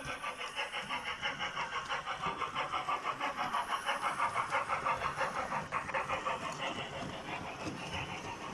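Model Q1 steam locomotive running along the layout's track, with a steady rhythmic puffing of about six beats a second. It is on a test run over newly relaid branch-line track.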